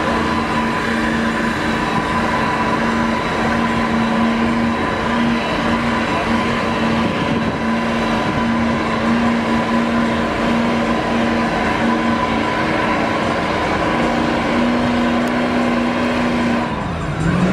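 Truck engine held at steady high revs under heavy load, straining against the opposing truck in a tug-of-war, then backing off near the end.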